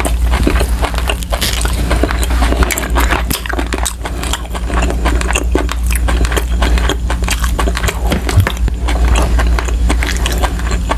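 Close-miked chewing and mouth sounds: dense, irregular wet clicks and smacks from chewing soft braised yellowfin tuna roe, with a steady low hum underneath.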